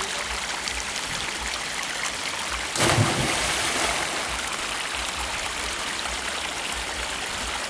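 Steady rush of a waterfall and its stream, with a sudden louder splash about three seconds in that dies away over a second, as a person jumps into the pool.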